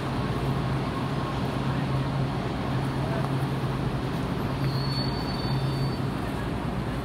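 Underground station platform ambience: an Expo Line light-rail train standing at the platform with its doors open, giving a steady low hum over a noisy background. A brief high thin tone sounds about five seconds in.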